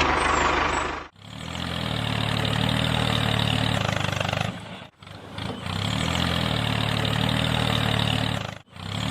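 Engine running, heard in repeated stretches of about four seconds that cut off abruptly. Each stretch swells up and then holds a steady idle-like note.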